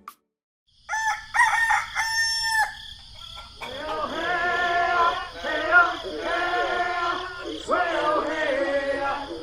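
Roosters crowing, starting about a second in: long drawn-out calls that rise, hold and fall, several overlapping toward the end.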